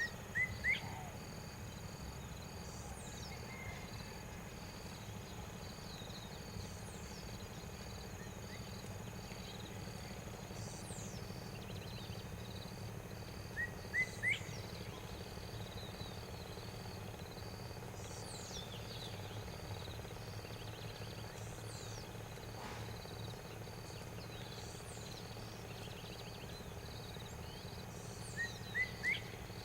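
Outdoor natural ambience: a steady, fast-pulsing insect trill over a low hum, with short groups of three quick rising bird chirps near the start, in the middle and near the end.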